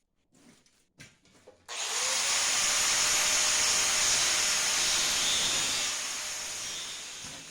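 A power tool switched on about two seconds in, its motor quickly coming up to speed and running with a loud, steady hiss, then winding down near the end.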